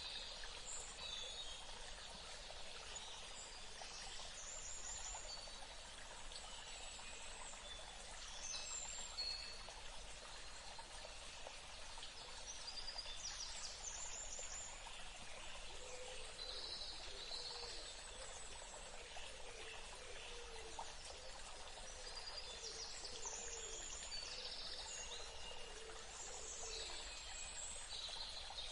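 Wild birds chirping and calling over a steady hiss of water, in a rainforest or park ambience. A run of lower repeated notes sounds through the second half.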